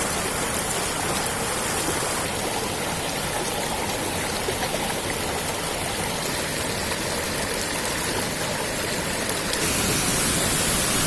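Steady rushing of falling water at the Gandov waterfall, a dense even hiss with no pitch; it grows a little louder near the end.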